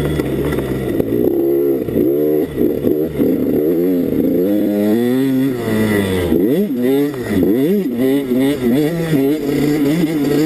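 Two-stroke 85cc dirt bike engine revving hard and dropping off again and again as the rider works the throttle and gears; the pitch climbs and falls over and over, with a deeper dip about six seconds in.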